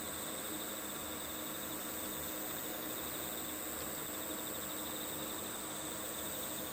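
A steady chorus of crickets and other insects trilling over a soft hiss, part of a nature-sound backdrop.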